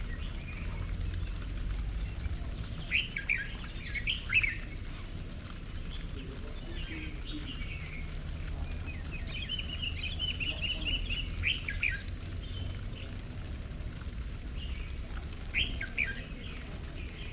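Garden birds calling: scattered short, sharp chirps, with a quick run of repeated notes about ten seconds in, over a low steady rumble.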